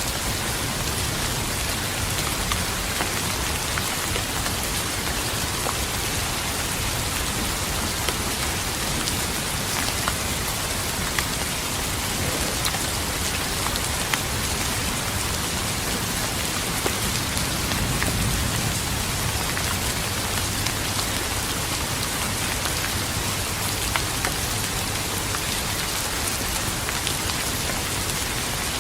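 Steady rain falling on a hard surface, an even hiss scattered with the ticks of single drops. A low rumble of thunder swells briefly about two-thirds of the way through.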